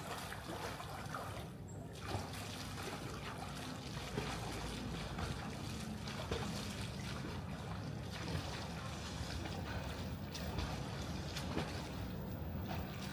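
Swimming-pool water sloshing and trickling close to the microphone over a steady low rumble.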